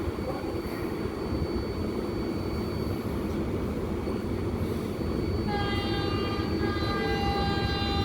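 New York City Subway R188 train running with a steady rumble on the elevated Flushing Line, then sounding its horn in one long blast starting about five and a half seconds in.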